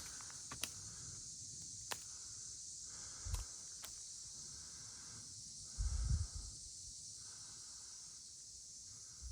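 Steady high-pitched chorus of insects such as crickets in woodland, with a few sharp clicks and two soft thuds of footsteps through brush.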